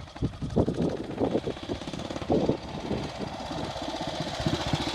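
Ariel W/NG's 350 cc single-cylinder engine running, its slow, uneven beat turning into a steadier, quicker thump that grows louder near the end.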